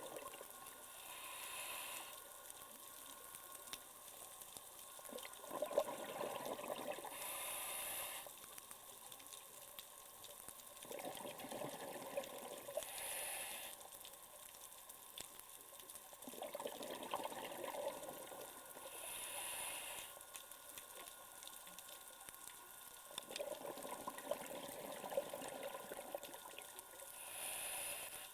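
Scuba diver breathing through a regulator underwater, in a slow steady cycle about every six seconds: a hiss on each inhale, then a short rush of exhaled bubbles.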